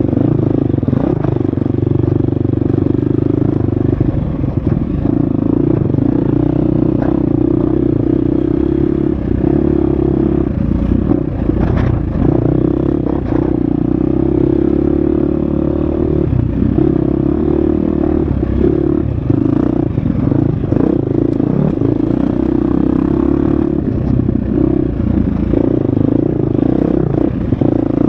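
Husqvarna FX 350 four-stroke single-cylinder dirt bike engine running hard on a trail, its note dipping and picking up again with the throttle, with scattered knocks and clatter from the bike over rough ground.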